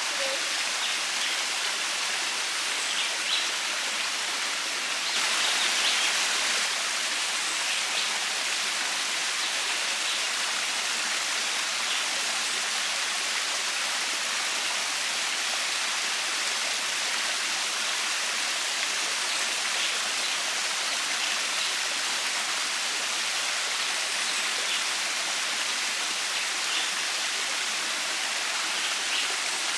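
Small waterfall cascading over shelf-like rock ledges: a steady rush of falling water, a little louder for about a second and a half around five seconds in.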